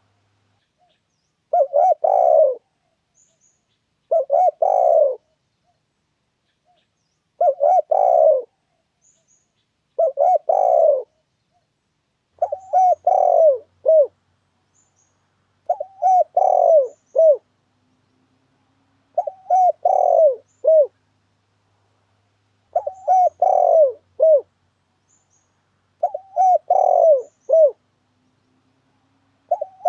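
Spotted dove cooing: short phrases of several low coos, repeated about every three seconds, with silence in between. This is a lure call used to draw in and trap wild spotted doves.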